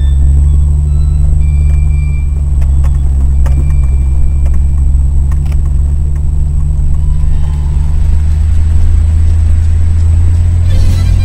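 Engine of an off-road 4x4, heard from inside its cabin: a loud, steady low drone as it drives slowly along a rough track, with a few faint knocks from the body.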